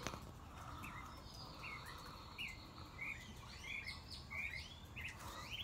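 Small birds chirping in a quick run of short, high notes. The run begins about a second and a half in and gets busier near the end, over faint steady outdoor background noise.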